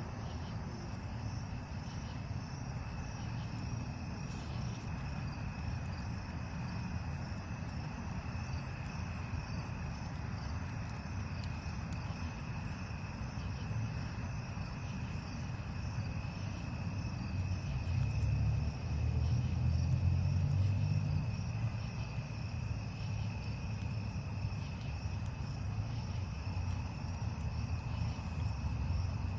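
Crickets trilling steadily in one high, unbroken tone, over a low background rumble that swells louder for a few seconds past the middle.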